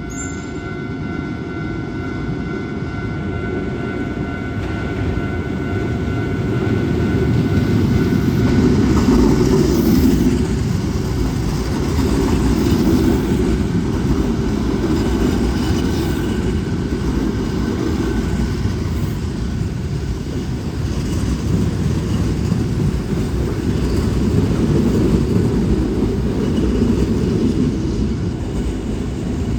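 Hankyu electric commuter train passing close by: a steady rumble of wheels on rails that builds to its loudest about nine seconds in and stays loud after. Ringing level-crossing alarm tones sound over the first eight seconds or so, then fade out.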